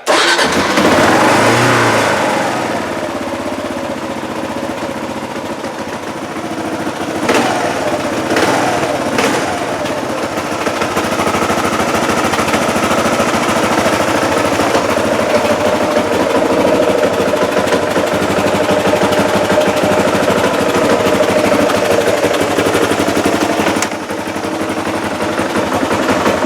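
Kawasaki KLR650's single-cylinder four-stroke engine catching and running, blipped up in revs a few times about seven to nine seconds in, then settling into a steady run. It runs very cleanly now that the frozen-up fault has been sorted out.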